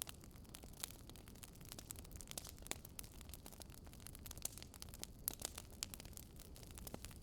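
Faint crackling of a wood fire: irregular sharp pops and snaps, several a second, over a low steady rumble.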